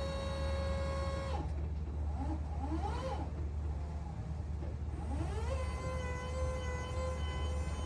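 Hyster N45ZR2 electric reach truck running, its motors whining over a steady low hum. About a second and a half in, the steady whine drops away and several short rising and falling whines follow as the motors speed up and slow down. A steady whine settles back in about two-thirds of the way through.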